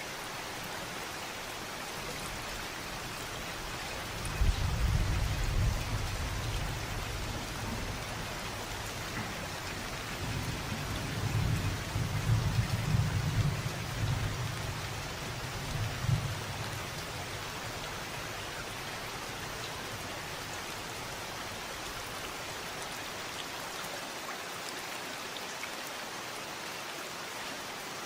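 Steady rain falling, with a low rumble of thunder starting about four seconds in, swelling again in the middle and dying away after about sixteen seconds, leaving the rain alone.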